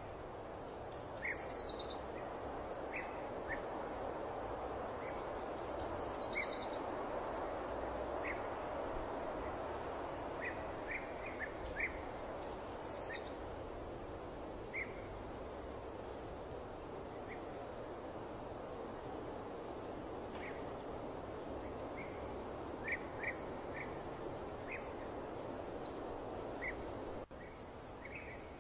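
Small birds chirping over a steady rushing background noise, with a few louder falling trills about a second in, around six seconds and near thirteen seconds.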